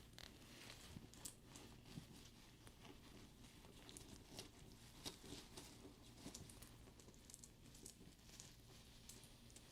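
Faint close-up handling of a studded faux-leather purse: soft rubbing of the leather with many small, irregular clicks and light taps from its metal studs.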